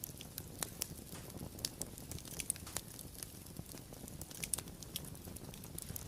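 Wood fire crackling: irregular sharp pops and snaps several times a second over a soft low rumble of burning.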